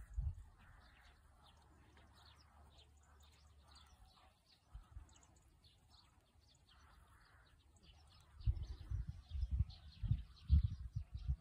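Small birds chirping in the background, many short high chirps. From about eight seconds in, a run of loud, irregular low thuds takes over.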